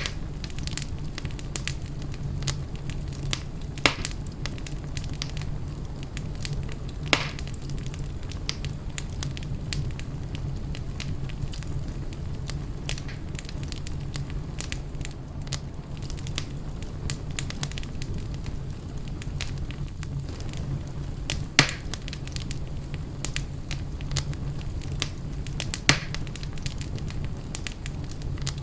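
Fire burning in a fireplace: a steady low rumble with constant small crackles and about four louder pops.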